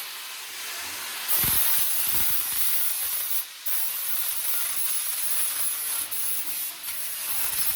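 A high-speed power tool abrading the car body's sheet metal: a steady gritty hiss with a faint high whine. It lifts off or drops briefly a few times, about halfway through and near the end.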